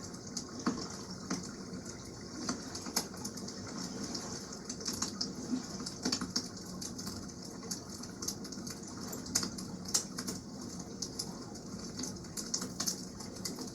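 Wood campfire crackling, with frequent irregular sharp pops, over a steady wash of water.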